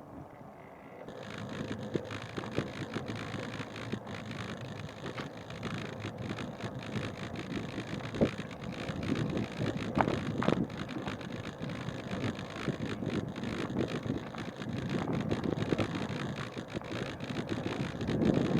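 Wind buffeting the action camera's microphone: a crackly rumble that comes in about a second in and slowly grows louder.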